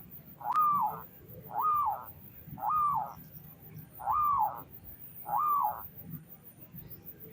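Zebra dove (perkutut) cooing: five separate coos about a second apart, each note rising and then falling in pitch, stopping about six seconds in.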